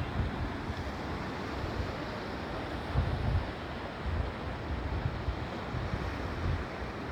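Sea waves washing in a steady hiss, with wind buffeting the microphone in low rumbling gusts, the strongest about three seconds in.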